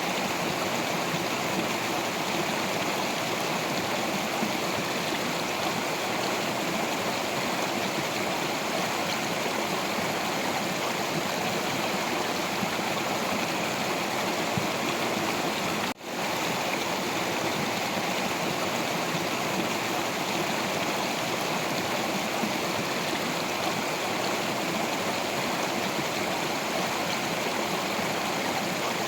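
Water of a stream flowing over rocks: a steady, even rush of moving water. There is a momentary break in the sound about halfway through.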